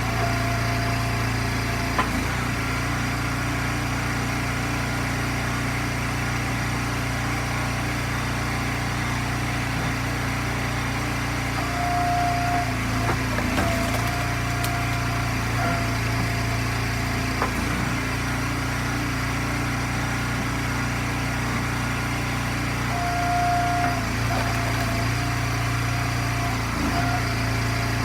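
Eastonmade hydraulic log splitter's gas engine running steadily. Its sound swells briefly twice as a higher tone comes in. A few short sharp knocks are heard.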